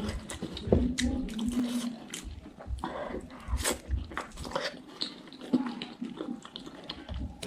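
Close-miked chewing and biting of spicy chicken feet: a run of wet smacks and sharp clicks at an uneven pace.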